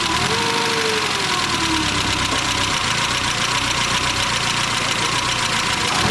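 BMW 1600-2's 1.6-litre M10 four-cylinder engine running, its pitch falling slowly over the first couple of seconds as the revs drop, over a steady rushing noise.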